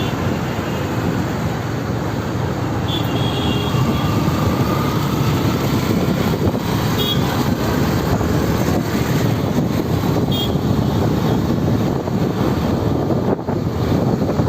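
Steady road and traffic noise from a motorbike ride through city traffic, with a few brief high tones from passing vehicles.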